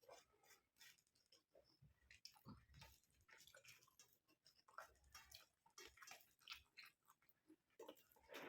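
Faint close-miked chewing of curry and rice: irregular wet mouth clicks and smacks.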